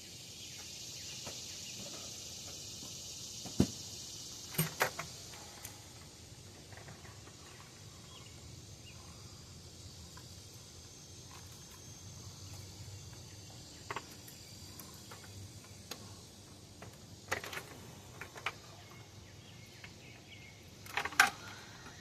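Scattered clicks and knocks of engine parts and tools being handled, the loudest a quick pair near the end, over a faint steady hiss that is strongest in the first few seconds.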